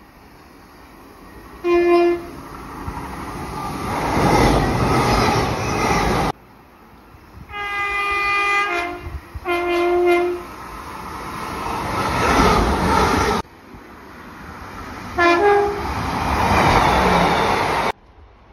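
Three short recordings of trains cut one after another. In each, a train horn sounds (a single blast in the first and last, two blasts in the middle one), then the passing train's rumble swells and cuts off abruptly.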